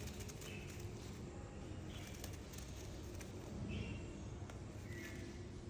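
Faint, short bird calls, one about every one and a half seconds, over a low steady rumble of background noise, with a few faint clicks.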